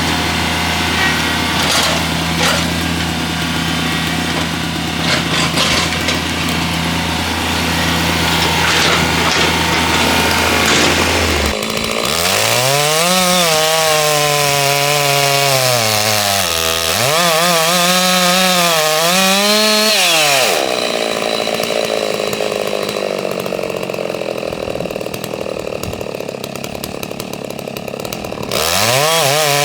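Holzfforma G660 92cc two-stroke chainsaw, a clone of the Stihl 660, running and cutting wood. Its engine pitch rises and falls several times as the throttle is worked in the middle, and it settles into steady cutting again after that.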